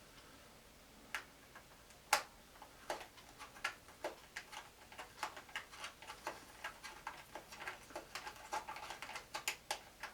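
Small sharp clicks and ticks of a screwdriver working a screw in a plastic boombox cabinet, a few at first, then a steady run of about two or three a second from about three seconds in. The screw turns but will not come free.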